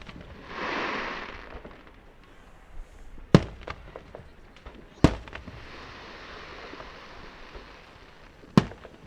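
Aerial fireworks going off: three sharp booms, about three, five and eight and a half seconds in, with smaller pops and stretches of hissing noise between them.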